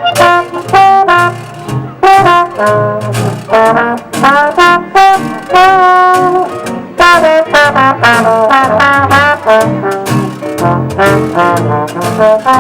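Live New Orleans jazz played by a brass band with washboard and keyboard: the horns play the melody in short phrases over a steady beat.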